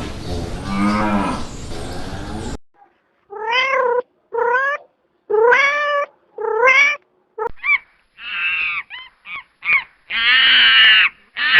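Cats meowing. After a lower call over a hiss in the first two seconds, four separate rising-and-falling meows come about a second apart, then several short chirping meows, and two longer, louder meows near the end.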